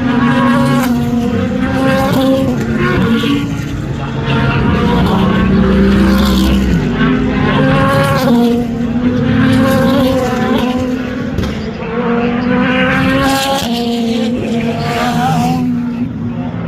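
Sports-prototype and GT race cars' engines running hard past the track, one car after another, their pitch climbing and dropping in steps as they shift gears and go by.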